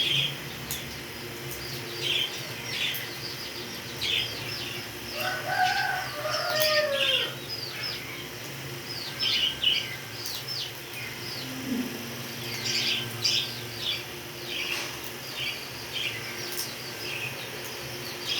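Pet parrots chirping over and over in short, sharp, high calls, with a lower gliding whistle-like call about a third of the way in.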